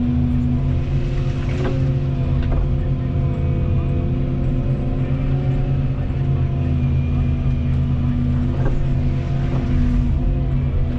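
Volvo 235EL excavator's diesel engine running steadily under hydraulic load, with a few sharp knocks, two near the start and two near the end.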